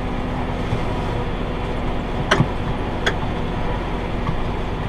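Tractor pulling a round baler, engine and baler running steadily at field speed, with a few sharp clicks a little after halfway through.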